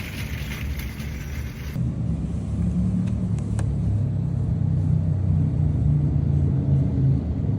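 A low, steady rumble with a hum under it; the sound changes abruptly about two seconds in.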